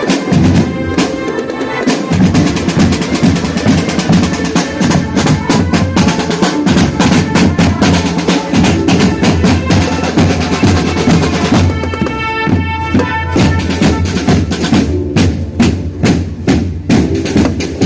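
Marching band playing: fast snare-drum strokes and rolls over bass drums, with a pitched melody coming to the fore about twelve seconds in.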